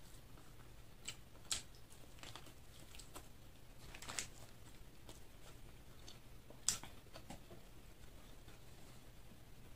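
Eating crispy fried chicken: faint chewing with scattered sharp crunches and crackles, the loudest about four and seven seconds in.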